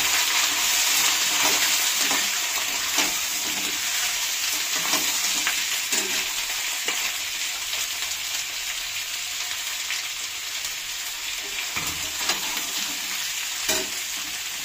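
Sliced onions and potato pieces sizzling in hot mustard oil in a kadhai, the sizzle slowly softening. A few sharp clinks of utensils against the pan stand out over it.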